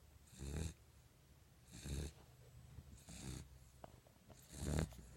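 A puppy snoring in its sleep: four snores, one about every second and a half.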